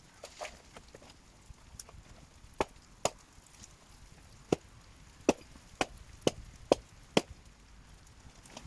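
Axe blows chopping into dead wood: about eight sharp strikes, starting a couple of seconds in and quickening to roughly two a second.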